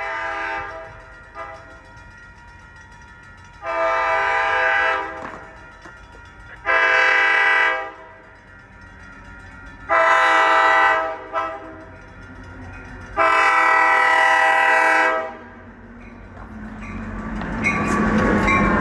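Train horn sounding a series of long blasts a couple of seconds apart, with the pattern of the long-long-short-long grade-crossing warning, then the train's rumble growing louder as it comes closer near the end.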